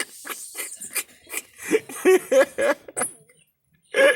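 A handful of short, pitched calls from birds squabbling over food, mixed with sharp little noises. The loudest calls come about two seconds in and again near the end.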